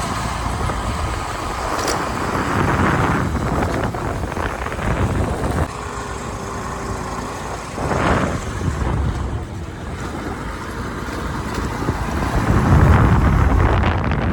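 Road vehicle and traffic noise with wind rumbling on the microphone, swelling louder a few times.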